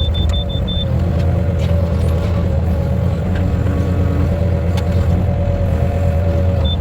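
Engine running steadily with a deep rumble, a rapid high-pitched beeping over it during the first second.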